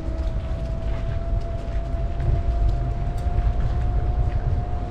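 Low rumble of wind on the microphone and tyre noise from a bicycle being ridden, with a steady high whine held throughout.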